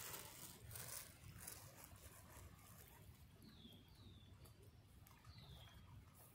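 Faint bird calls: three short, high chirps that slide downward, two close together about three and a half seconds in and one more near the end, over a faint low rumble.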